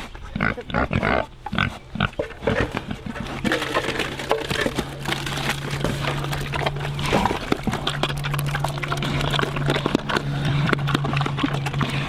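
Pigs grunting and eating noisily at their feed, with rapid smacking and crunching. A steady low hum runs underneath from about two seconds in.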